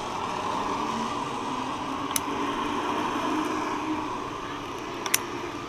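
Zipline trolley pulleys rolling along a steel cable, a steady whir that swells and then eases off. Two sharp metallic clicks come about two seconds in and again about five seconds in.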